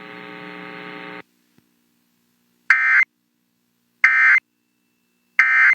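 Emergency Alert System end-of-message code: three short identical bursts of shrill digital data tones, about a second and a half apart, closing the broadcast flash flood warning. Before them, a buzzing hum cuts off about a second in.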